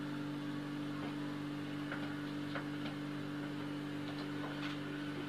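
A steady low hum at two constant pitches, with a few faint ticks scattered through it.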